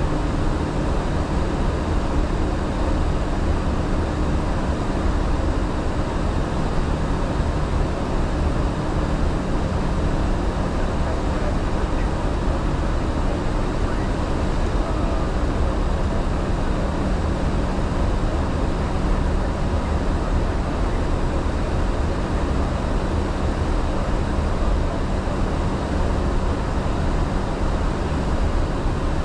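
Steady rushing noise on the flight deck of an Airbus A350-900 in the climb, with a faint low hum under it.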